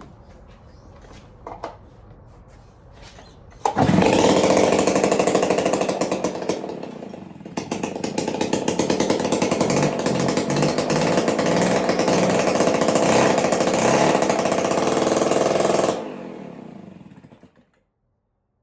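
Stihl BR340 two-stroke leaf blower engine, running without its muffler, starts up about four seconds in and runs loud and high, with a brief dip partway through before it picks back up. It is then shut off near the end, and the sound dies away over a second or two. It is the freshly repaired blower running for the first time after a new coil and carburettor.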